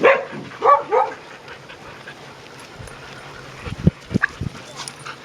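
A dog giving three short, pitch-bending yips or whines in about the first second. A few short low thumps follow past the middle.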